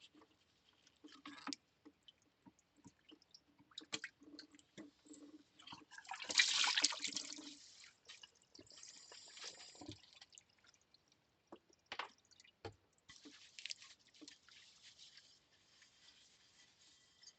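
Plates being washed by hand in a sink: water dripping and splashing with small clicks and scrapes of ceramic, and a louder splash of water about six seconds in.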